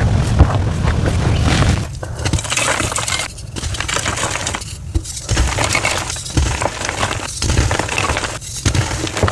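Gym chalk being crushed, a dense crunching and crumbling played at double speed. After about two seconds it breaks into separate bursts of crunching with short pauses between them.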